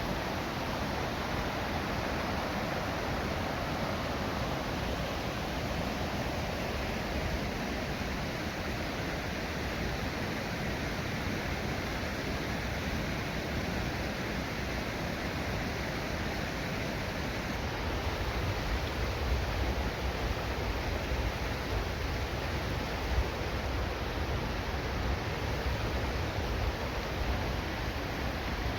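Steady rush of a mountain river and waterfall, with a low rumble coming up in the second half.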